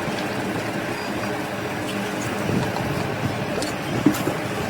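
Steady mechanical running noise with a low hum, broken by a couple of short knocks near the end.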